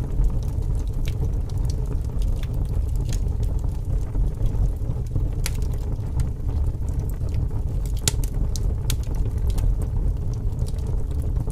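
Wood fire crackling, with irregular sharp pops scattered through, a few close together about eight seconds in, over a steady low rumble of wind.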